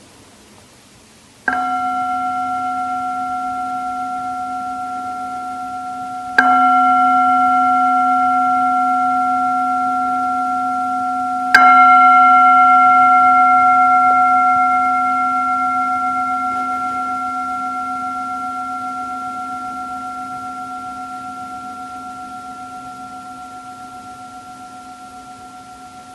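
A singing bowl struck three times, about five seconds apart, each strike ringing on in a long, slowly fading tone with a slow wavering beat.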